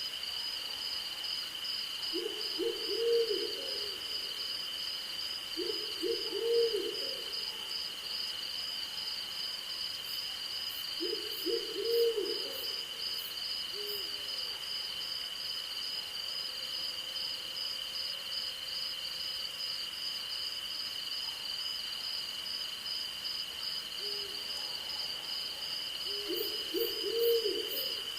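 An owl hooting four times, each call a short cluster of low hoots. Beneath it, a steady chorus of crickets and other insects keeps up two continuous high trills, one of them pulsing rapidly.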